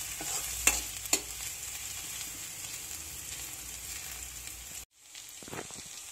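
Chopped onions, peanuts and green chillies sizzling in oil in a kadhai while a steel spoon stirs them, with a couple of sharp spoon clicks against the pan about a second in. The sound cuts out briefly near the end, then the sizzle resumes.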